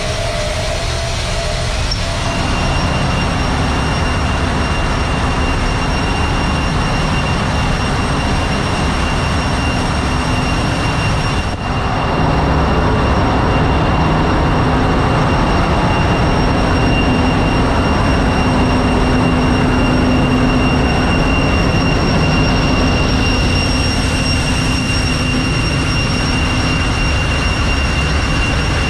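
Loud, steady machinery noise of a ship's engine room, a dense running sound with a few steady high whining tones over it; it dips briefly about twelve seconds in.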